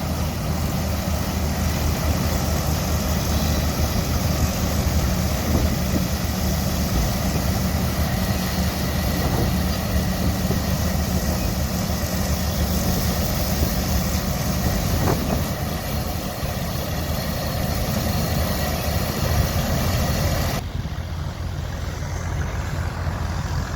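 Allis-Chalmers Model M crawler tractor's engine running steadily as it tows a Rumely pull-type combine, with the combine's threshing machinery adding a steady clatter. The higher, hissing part of the noise drops away abruptly near the end.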